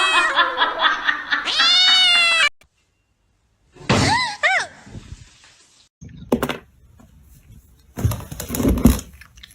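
A cat meowing in long, drawn-out, wavering calls that stop abruptly about two and a half seconds in. Two short meows follow about four seconds in, then scattered knocks and rustling near the end.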